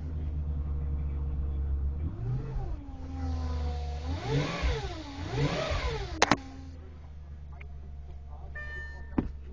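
2006 Audi S4's 4.2-litre V8 idling, then revved three times, each rev rising and falling back, after which it settles to a quieter idle. A sharp click comes just after the last rev, and an electronic chime begins beeping near the end.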